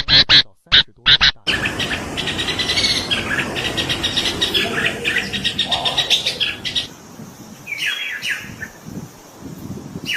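Red-whiskered bulbul calling: loud, close chattering notes in the first second and a half, then, after an abrupt change, a fast run of repeated chirps and a few short call notes sliding downward near the end.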